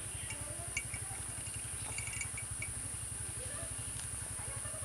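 Insects (crickets or cicadas) droning steadily at a high pitch, over a low, rapid throbbing hum. A few short bird chirps come in the first half.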